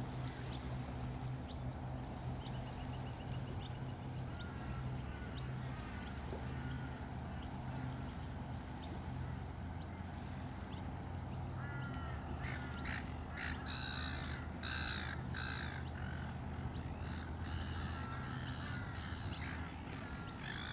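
Gulls calling: a few faint chirps at first, then from about halfway a run of loud, harsh, repeated calls, several a second. A steady low hum runs underneath.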